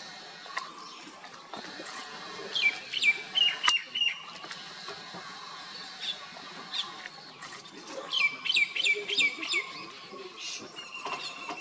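Birds calling: two runs of quick chirps, each note falling in pitch, about two and a half seconds in and again about eight seconds in, over a faint steady high tone. A single sharp click near the four-second mark.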